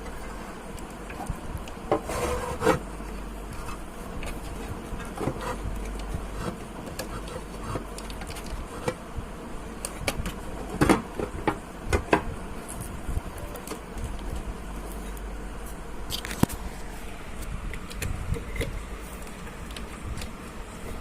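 Power amplifier's speaker output giving a low steady buzzing hum, broken by irregular crackles and clicks, typical of a faulty or poorly seated connection in an amplifier that plays on one side only.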